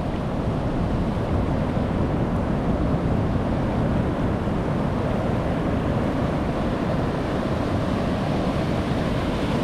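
Strong ocean surf: a steady, continuous wash of breaking waves, with wind on the microphone.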